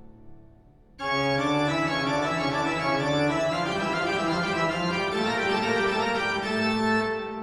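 Background music of sustained keyboard chords, faint at first, then a loud full chord coming in suddenly about a second in and held until it fades away near the end.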